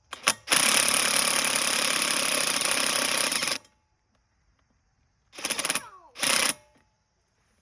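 Power drill drilling out the rivets on a pit bike's exhaust muffler, metal on metal: two quick trigger blips, a steady run of about three seconds, then two short bursts, the first winding down in pitch.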